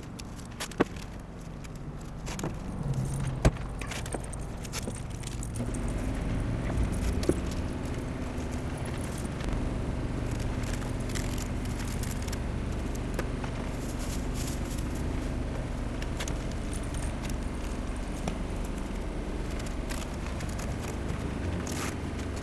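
Aerosol spray-paint can being handled and shaken, its mixing ball rattling, with a couple of sharp clicks in the first few seconds. A steady low rumble comes in about six seconds in and carries on underneath.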